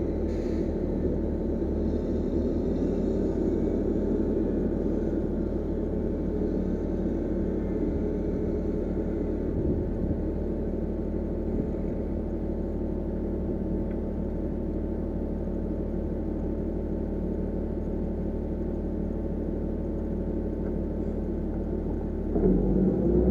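Diesel engine of heavy earthmoving equipment running steadily, then revving up, rising in pitch, near the end.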